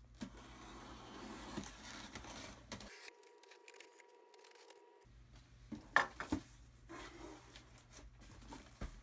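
Cardboard shipping box being opened by hand: packing tape cut and torn, then flaps and paper rustling and crinkling, with a few sharp clicks about six seconds in.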